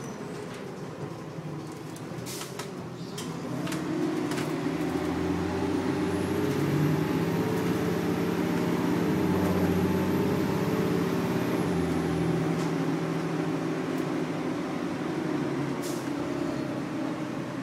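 Interior of a 2000 Nova Bus LFS with a Detroit Diesel Series 40 diesel engine and an Allison B400R automatic transmission. The engine picks up about three seconds in and runs loudest through the middle, with a thin high whine. A few sharp rattles come from the cabin.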